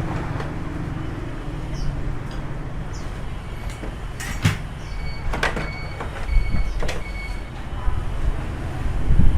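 Several sharp clicks and knocks over a steady low hum, with a louder clatter near the end and faint short high chirps in between.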